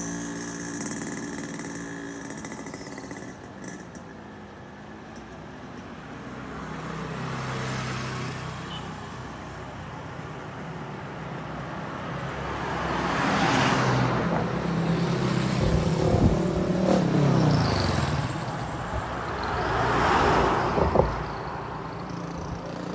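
A motor engine running, its sound swelling louder twice, about halfway through and again near the end, with its pitch falling in between.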